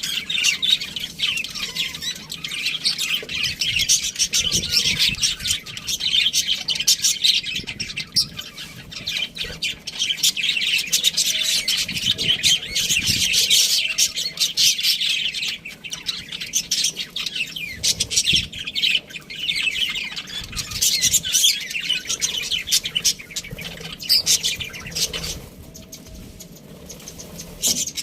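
A flock of budgerigars chirping and chattering without pause, many quick overlapping high chirps and squawks, easing for a moment near the end.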